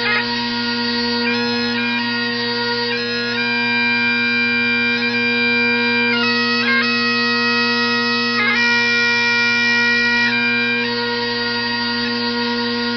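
Bagpipes playing a slow melody over a steady drone.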